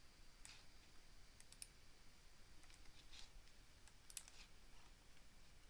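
Faint, scattered clicks of a computer mouse, about a dozen over a few seconds, against near-silent room tone.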